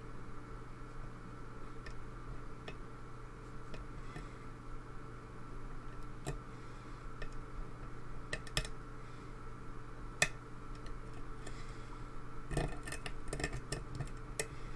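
Lock pick and tension bar working the pins of a pin-tumbler lock: scattered faint metallic ticks and clicks, with a quicker run of clicks about three-quarters of the way through, over a steady low hum.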